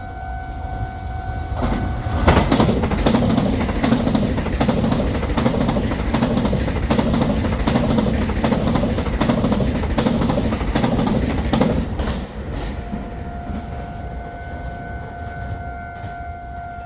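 A Taiwan Railways train passing through a station at speed, its wheels clicking rapidly over the rail joints for about ten seconds before the sound drops away. A steady two-pitch electronic tone sounds before the train arrives and again after it has gone.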